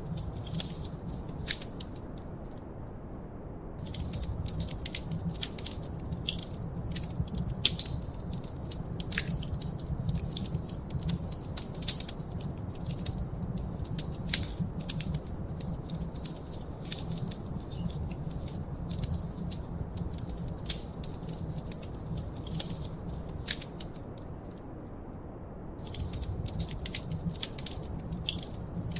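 Wood fire in a fireplace crackling and popping over a steady low rumble of the flames. The crackles stop for about a second twice, a few seconds in and again near the end.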